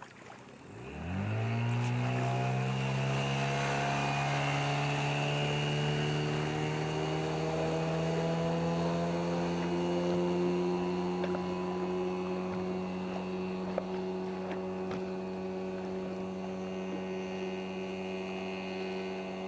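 15 hp outboard motor on a rigid inflatable boat throttling up about a second in. Its pitch climbs quickly, keeps creeping higher for several seconds, then holds steady at speed.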